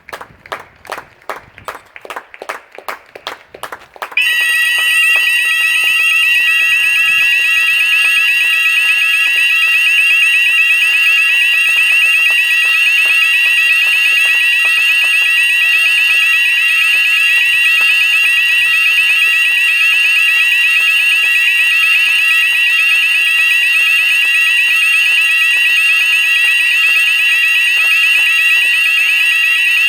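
Hand clapping at about three claps a second, then, about four seconds in, fire alarm sounders cut in suddenly and sound continuously and loudly: a fast-warbling high tone over several steady tones.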